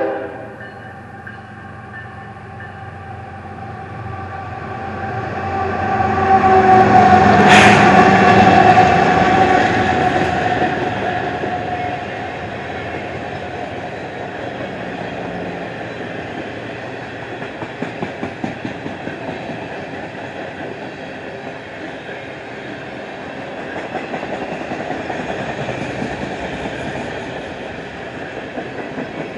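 A CSX freight train led by two GE diesel locomotives passes close by: a horn blast cuts off at the start, the locomotives swell to their loudest about six to ten seconds in with a sharp crack near the peak, then the freight cars roll past with steady rumble and the clickety-clack of wheels over rail joints.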